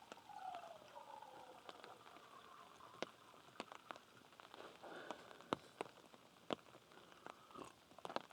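Light rain: scattered raindrops ticking irregularly on a surface, faint.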